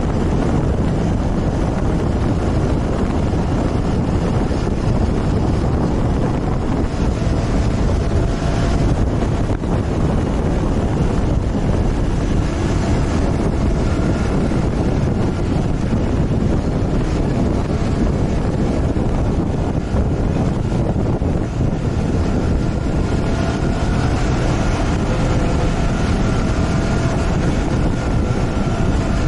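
A moving motorcycle: heavy wind rushing over the microphone, with the engine running steadily underneath. A faint steady engine tone comes through in the second half.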